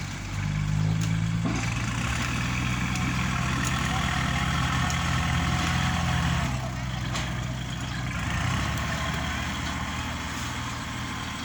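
A heavy diesel engine runs steadily and loudly at working revs, then eases off a little after about eight seconds.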